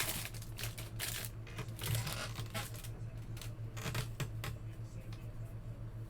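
Trading cards being flipped through and sorted by hand: a quick run of light clicks and flicks that thins out after about three seconds, over a steady low hum.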